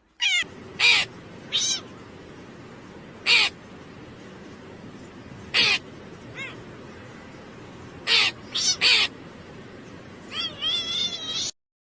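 An animal calling about a dozen times in short, harsh calls that bend in pitch, spaced irregularly, with a quicker run of calls near the end.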